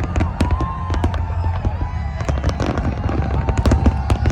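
Large fireworks display: rapid, irregular bangs and crackles of bursting shells over a constant low rumble.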